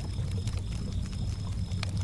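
Campfire crackling, with sharp irregular pops over a steady low rumble, and crickets chirping in high thin trills that come and go.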